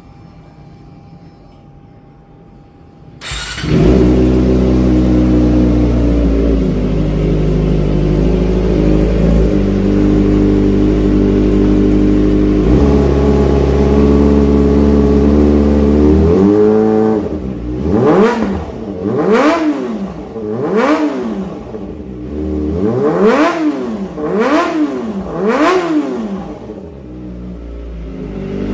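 Kawasaki ZX-25R's inline-four engine through an SC Project aftermarket exhaust: it starts up suddenly about three seconds in and idles steadily, then from about the middle is revved hard in about six quick throttle blips, each rising and falling sharply, before dropping back to idle near the end.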